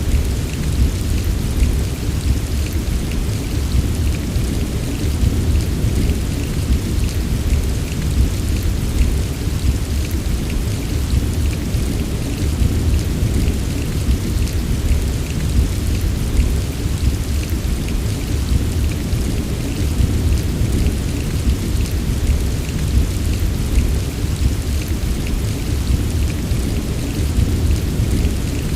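Steady heavy rain, a continuous hiss with a fine patter of drops and a constant deep rumble underneath.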